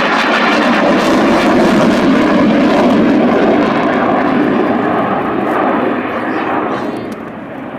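Eurofighter Typhoon jet with its twin EJ200 turbofans, heard as a loud, steady rushing roar during a display manoeuvre, fading from about six seconds in.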